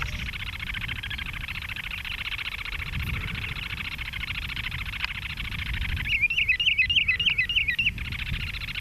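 Shorebirds calling: a fast, continuous trill of high notes, joined about six seconds in by a louder two-second run of rapid warbling calls, over a low rumble.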